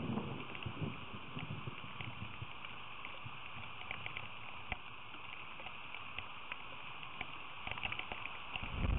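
Steady rain falling, with scattered sharp drip ticks throughout and a low rumble at the start and again near the end.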